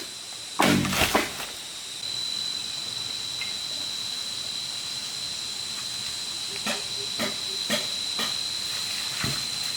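Knocks of a tool chopping and tapping on bamboo: a quick cluster near the start, then single strikes spaced about half a second apart near the end. Under them runs a steady high-pitched hiss with a thin whining tone.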